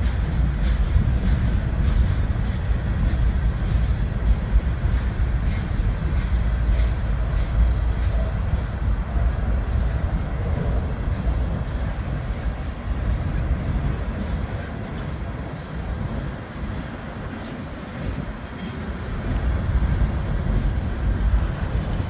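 CN freight train rolling past at close range: a steady heavy rumble of wheels on rail, with irregular clicks and knocks from the wheels and cars. It eases off a little in the second half.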